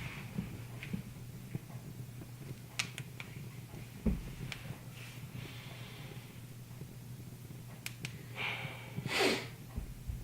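Wood fire crackling, with a few scattered sharp pops over a steady low hum. About nine seconds in there is a short, louder breathy rush.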